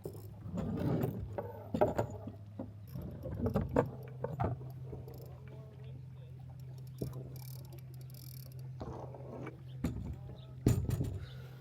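Knocks and clatter from a small sailboat's hull and fittings as it is handled, several bumps scattered through and the loudest near the end, over a steady low hum.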